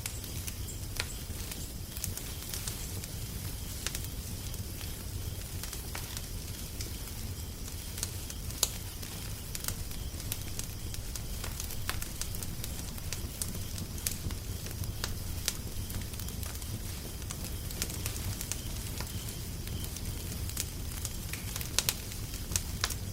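Wood fire crackling, with a steady low rumble under irregular sharp pops and snaps; a few louder pops about nine seconds in and near the end.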